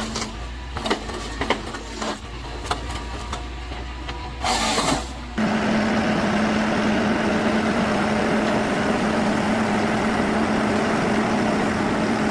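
Machinery clattering with irregular clicks and knocks over a low hum, then a short loud rush. About five seconds in it cuts abruptly to an engine running steadily with a constant low drone.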